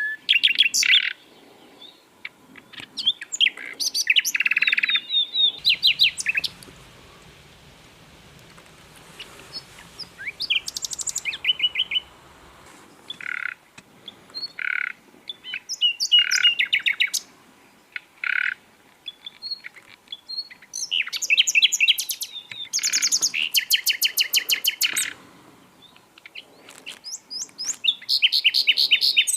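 Sikatan londo (flycatcher) singing: repeated bursts of fast chattering trills and sharp high notes, each burst a second or two long, separated by short pauses.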